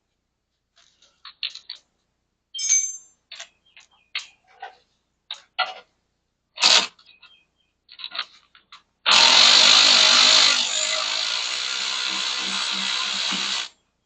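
Metal hand tools clink and tap several times, then a power tool runs for about four and a half seconds, loudest at first and settling a little lower before it cuts off suddenly.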